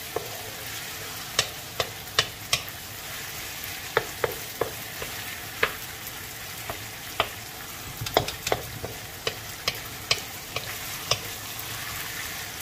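Onions, garlic and softened tomatoes sizzling steadily in oil in a metal wok, stirred with a wooden spatula that clacks and scrapes against the pan at irregular moments.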